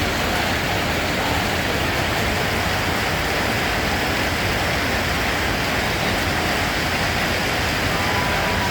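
Steady rain, an even, unbroken hiss with no separate drops standing out.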